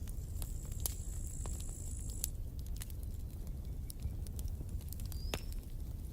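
Campfire crackling: scattered sharp pops and snaps over a steady low rumble. A thin high whine holds for about the first two seconds, and a short high chirp sounds about five seconds in.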